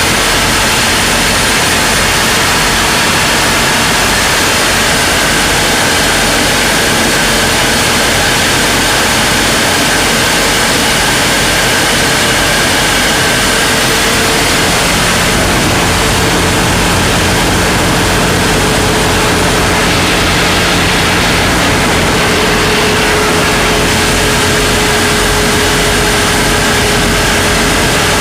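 Ship's engine running, a loud, steady drone with a held tone that shifts slightly in pitch about halfway through.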